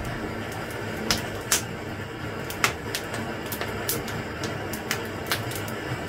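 Wood fire crackling: irregular sharp pops, one or two a second, over a steady hiss.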